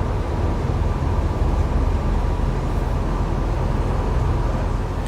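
Steady low rumble of a moving transit bus, engine and road noise, heard from inside the passenger cabin.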